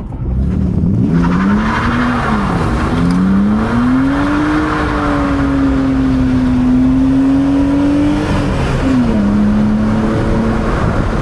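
BMW E46 328Ci's 2.8-litre straight-six revving through a slide on a wet road. The engine note climbs about two seconds in, holds high, and drops back near the end. A hiss from the spinning rear tyres runs while it is high, the wheel spin of a welded-differential car on wet pavement.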